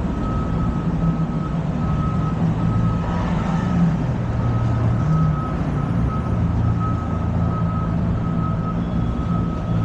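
A truck's reversing alarm beeping at an even pace over the low rumble of idling engines and street traffic.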